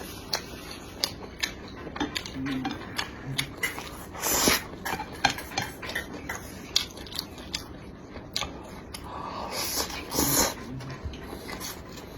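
Close-miked chewing and eating: wet mouth clicks and smacks come thick and fast, mixed with light clicks of utensils against a dish, and two louder rushes of breath or slurping about four and a half and ten seconds in.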